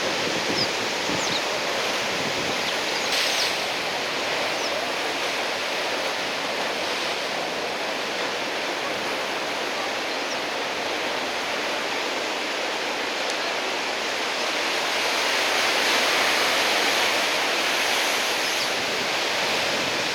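Heavy ocean surf from a big typhoon swell breaking continuously on the shore, a steady wash of water noise that swells louder about three quarters of the way through.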